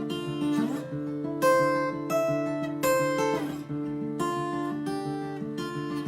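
Acoustic guitar strumming chords at a slow, steady pace, a new chord struck about every second.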